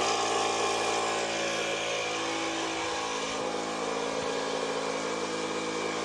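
Milwaukee cordless inflator's compressor pump switching on abruptly and running steadily, pumping air into the plumbing to push the water out of the water heater.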